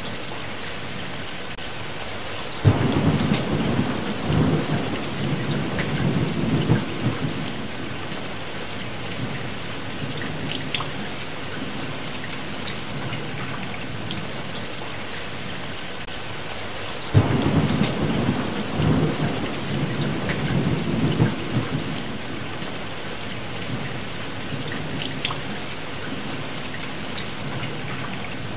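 Steady rain with two peals of thunder, one starting suddenly about three seconds in and another about seventeen seconds in, each rumbling for several seconds before fading back into the rain.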